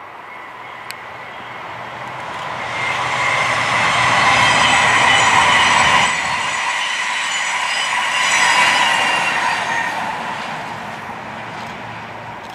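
A double-deck TGV high-speed train passes at speed, its rolling noise carrying a steady high whine. It builds up, is loudest for several seconds as the train goes by, then fades as it moves away.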